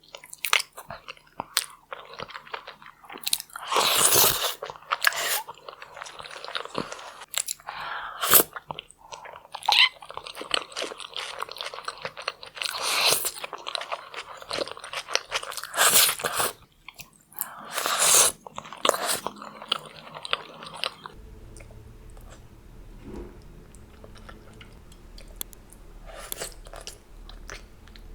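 A person eating saucy seafood close to the microphone, with loud crunchy bites and wet chewing. For the last several seconds the chewing is quieter, over a low steady hum.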